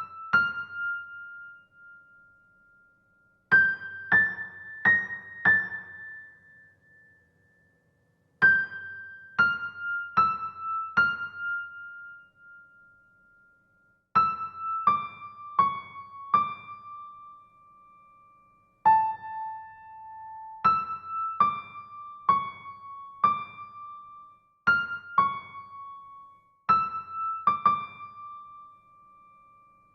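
Solo keyboard with a piano sound playing a slow melody of single high notes, in short phrases of three or four notes separated by pauses, each note ringing on and fading.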